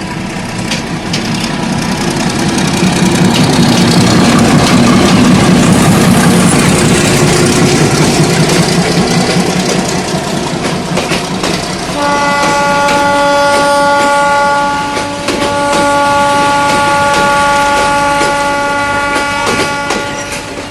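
Passenger train passing at speed: wheels clattering over rail joints in a heavy rumble that is loudest about four to eight seconds in. From about twelve seconds in, the locomotive's horn sounds a long multi-tone blast with a brief break partway through.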